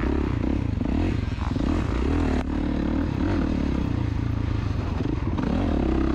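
KTM two-stroke dirt bike engine running on the track, its pitch rising and falling as the throttle is opened and closed.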